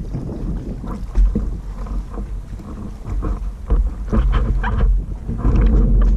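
Wind buffeting the microphone on a boat under way, an uneven low rumble that swells in gusts, louder in the second half.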